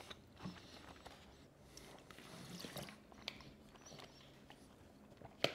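Faint chewing of a mouthful of food, with a few soft clicks and a sharper tap near the end.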